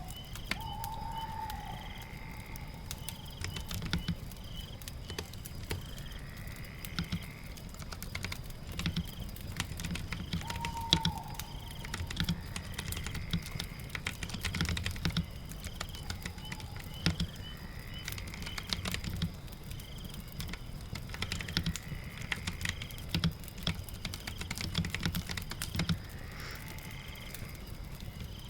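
Steady typing on a computer keyboard, irregular key clicks throughout, over a background of rain and crackling fire. Faint chirps recur every few seconds.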